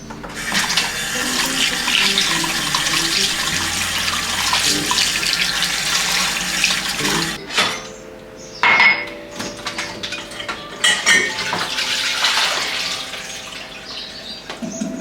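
Water running from a tap into a sink for about seven seconds, then stopping; after that, dishes and cutlery clink and knock.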